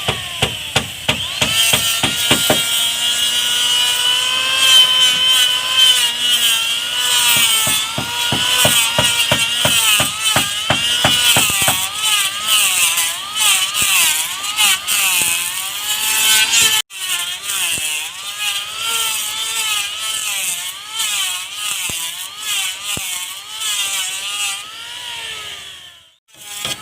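Electric woodworking power tool running with a whine that wavers in pitch as it works the wood, with stretches of rapid sharp knocks, about four a second, early on and again in the middle. It cuts out briefly twice, near the middle and near the end.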